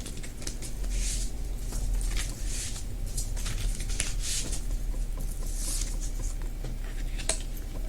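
A deck of oracle cards being shuffled by hand: a run of soft, papery swishes and light clicks.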